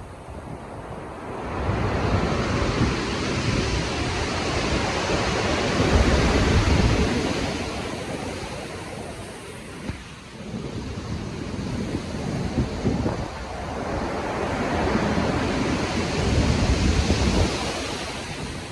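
Stormy ocean surf: rough waves breaking and washing in two long surges, one building to a peak about a third of the way in and fading, and a second swelling again and easing off near the end.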